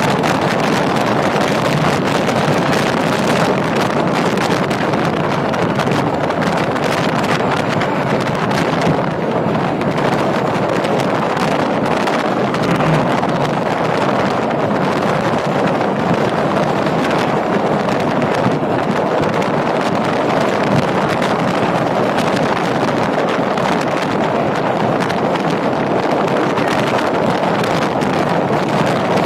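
Passenger train running through a long tunnel, heard from an open coach doorway: a loud, steady rush of wheels and rails closed in by the tunnel walls, with wind buffeting the microphone.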